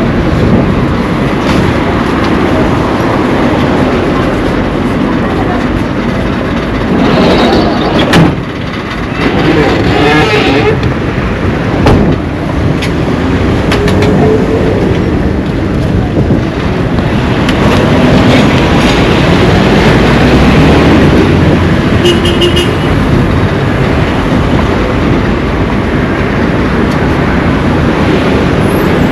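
Roadside traffic noise: vehicles passing along a street, a steady loud wash of engine and road noise.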